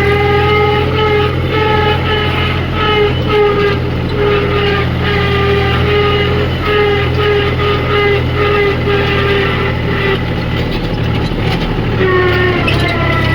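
A diesel engine running steadily under load, with a loud horn-like tone that pulses on and off about twice a second and drops in pitch near the end.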